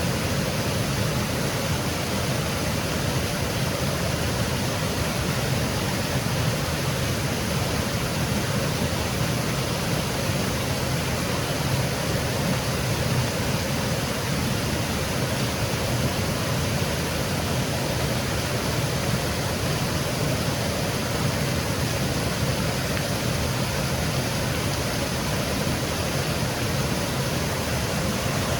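Small woodland waterfall cascading steadily, an even rushing of falling water with no breaks.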